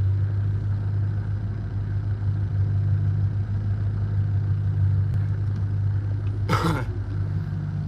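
A stopped truck's engine idling with a steady low hum. There is one short sharp sound about six and a half seconds in.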